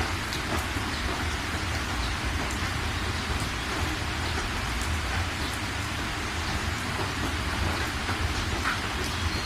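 Steady rain falling, with scattered individual drops standing out as sharp ticks over an even hiss, and a constant low rumble underneath.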